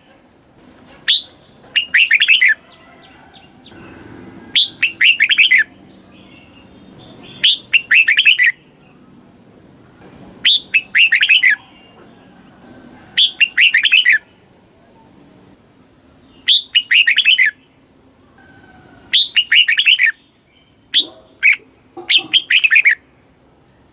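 Red-whiskered bulbul singing: short phrases of several quick notes, each about a second long, repeated every two to three seconds, with a few single short notes between phrases.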